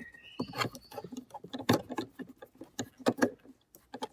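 Irregular clicks and scrapes of a screwdriver working the last screw out of a VW T4's plastic door trim panel, with a couple of short squeaks near the start. The screw is a stubborn one.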